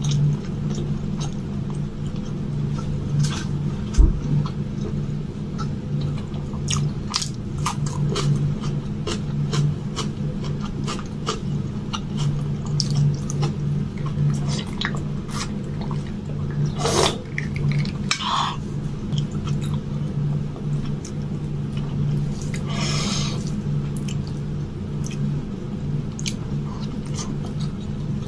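Close-miked eating sounds: a person chewing soft, wet mouthfuls of rice and palak paneer eaten by hand, with many small mouth clicks and smacks. A steady low hum runs underneath.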